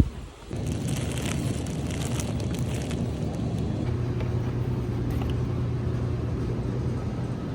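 Steady low rumble of a running motor vehicle, with a low hum that holds steady over the second half and a few faint light clicks early on.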